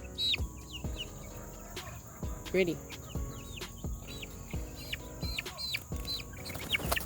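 A group of young chickens peeping: many short, high, falling peeps one after another, with a few low soft knocks among them.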